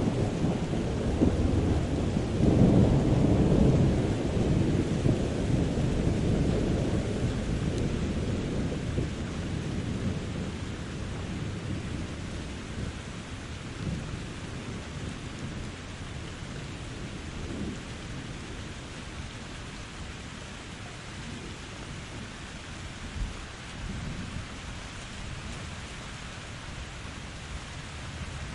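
Steady rain falling, with a long rumble of thunder that is loudest a few seconds in and dies away over about ten seconds.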